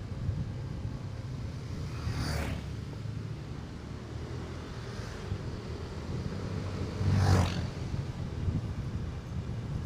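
Motorcycle running at road speed with wind buffeting the microphone, a steady low rumble throughout. Two brief whooshes pass, about two seconds in and again about seven seconds in.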